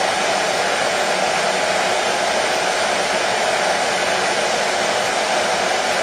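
Hair dryer running steadily: an even, unbroken rush of air with no change in pitch or level.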